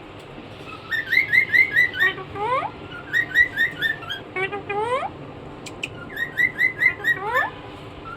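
A pet myna calling in three bouts: each a quick run of repeated chirps at about five a second, ending in one or two rising whistles. A sharp click sounds just before the last bout. The calls are those of the bird when very angry.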